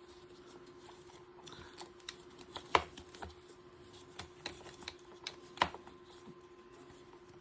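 Small clicks and light rustling as a loose 1/6-scale plastic action figure and its cloth uniform are handled, with two sharper clicks, one a little before the middle and one past it.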